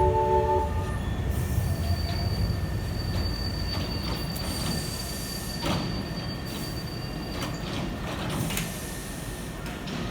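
Hankyu train departing from a platform at Osaka-Umeda: the last notes of the departure melody stop about half a second in, then come several short hisses of air and a steady high tone over the low rumble of the train.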